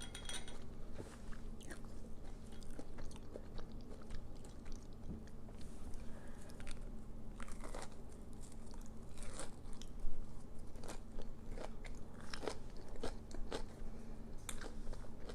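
Close-up crunching and chewing of crispy oven-baked onion rings: irregular sharp crunches with softer chewing between, one louder crunch about ten seconds in.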